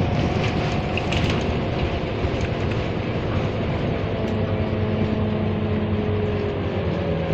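Scania N230UD double-decker bus running on the road: a steady engine drone with a whine that slowly falls in pitch over the last few seconds.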